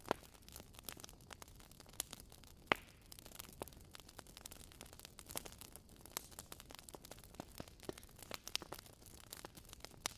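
Wood fire crackling: irregular small pops and snaps over a faint steady hiss, with one sharper pop just under three seconds in.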